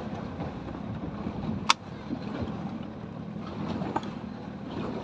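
Small boat on choppy sea: water washing against the hull, with wind noise. One sharp click about 1.7 s in.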